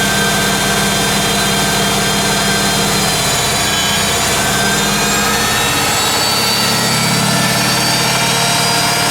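1980 Hoover Keymatic A3112 washing machine in its final spin, the motor and drum going from the 800 rpm phase into the famous 'Hoover Dip' before running up to 1100 rpm. The sound changes about three seconds in, then builds again.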